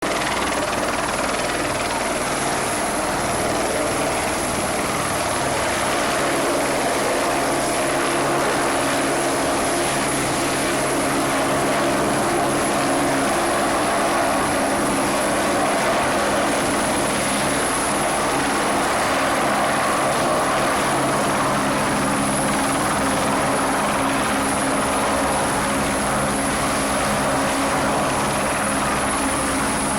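Helicopter running steadily: a continuous rotor and engine drone with a thin high-pitched whine over it, no change in pitch or level.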